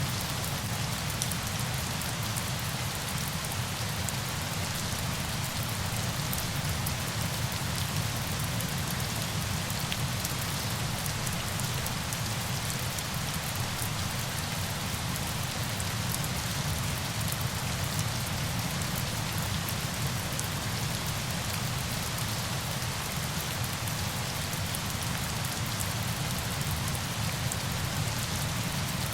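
Steady falling water, in the manner of rain or a waterfall: an even hiss scattered with many fine drop ticks over a low rumble, unchanging throughout.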